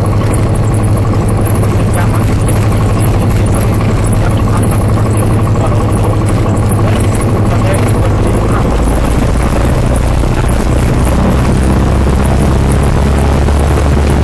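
Cessna 182 piston engine and propeller running loudly under a steady rush of wind noise; about eight and a half seconds in, the engine's low drone shifts to a lower pitch.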